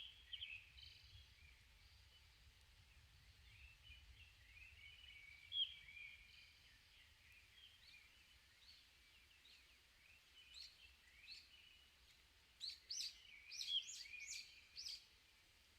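Several songbirds calling and singing, thin high notes and short warbles throughout. A quick run of sharp descending notes comes near the end.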